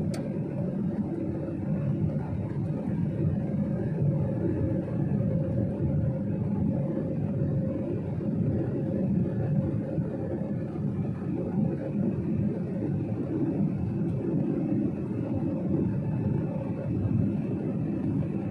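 Steady low rumble of jet engines and airflow heard inside an airliner's passenger cabin, with a faint steady hum above it: the even cabin noise of a plane in flight after takeoff.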